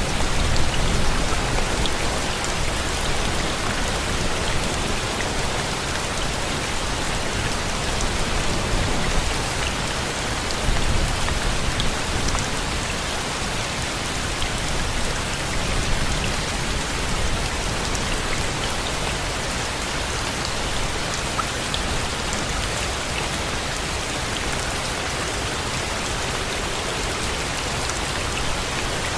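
Steady rain falling: a constant hiss with scattered ticks of single drops.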